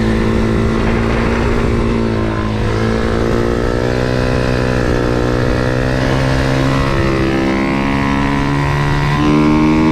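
MRF 140 SM pit bike's single-cylinder four-stroke engine, heard on board while riding on track. Its note dips about two seconds in, then climbs steadily as the rider gets back on the throttle.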